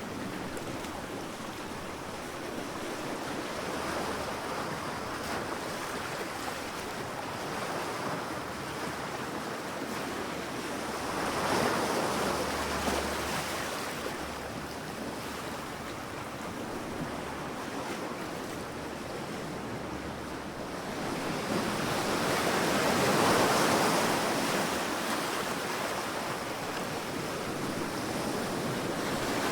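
Sea waves breaking and washing up on a sandy beach: a steady wash of surf with two bigger waves swelling and fading, one about a third of the way in and a louder one about three quarters through.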